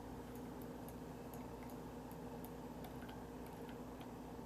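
Faint light clicks at irregular spacing, several a second, over a steady low electrical hum.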